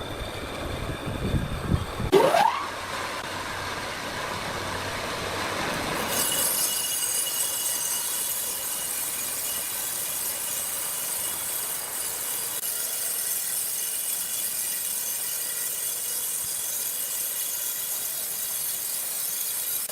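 Sawmill machinery running: low rumbling and knocks, then a rising whine about two seconds in, then a steady high hiss with whining tones from about six seconds on.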